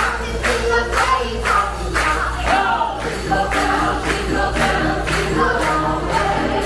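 A group of voices singing a song, backed by instruments, with a tambourine or jingle bells striking a steady beat about twice a second.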